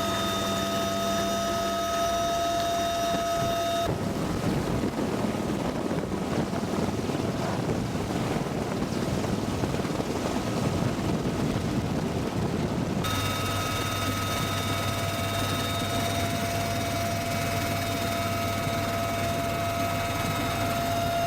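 Military helicopter's turbine engines running with a steady high whine. About four seconds in it gives way to a noisy rushing stretch like rotor wash and wind, and the whine returns about two-thirds of the way through.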